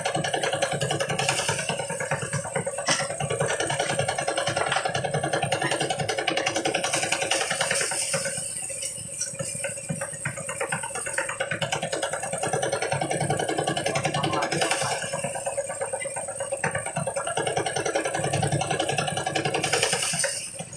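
Engine-driven rice thresher running with a steady hum and a dense, rapid rattle of grain and drum. It eases off twice, about 8 seconds in and again about 15 seconds in.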